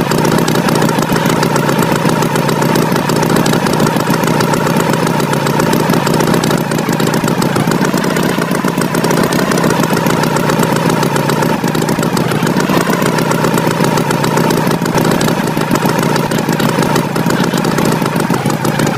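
Tractor engine running steadily at an even, rapid chug, with no change in speed.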